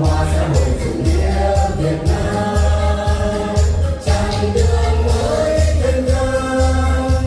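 A mixed male and female vocal group singing together over music with a steady, heavy bass beat.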